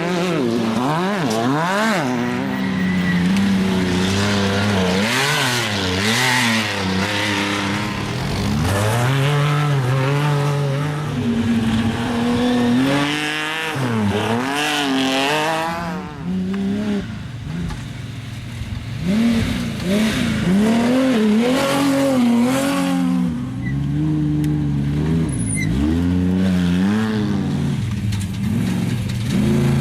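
Desert off-road race cars and trucks driven hard past, their engines revving up and down so the pitch rises and falls again and again.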